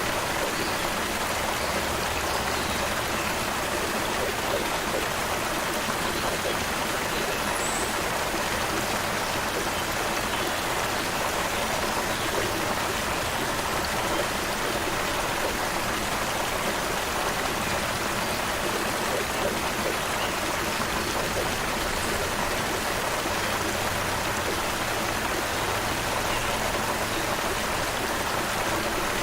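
Creek water flowing steadily, a continuous even rushing and babbling.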